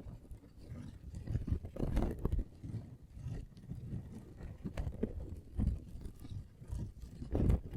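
Fingertips tapping and scratching close to the microphone: irregular soft taps mixed with scratchy rubbing, with a louder cluster about two seconds in and another near the end.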